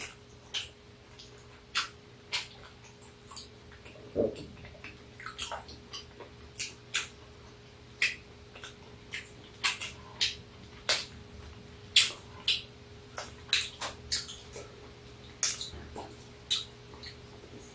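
Close-up eating sounds: irregular wet lip smacks and mouth clicks of people chewing, one or two a second, over a faint steady hum.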